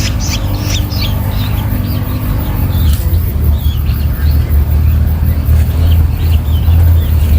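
Rapid, repeated short chirping calls of young long-tailed shrikes, dense in the first second or so and then fainter and scattered. Under them a steady low rumble that grows louder about three seconds in.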